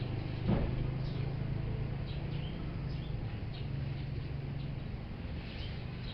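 Small birds chirping in short, repeated calls over a low steady hum, with a single knock about half a second in.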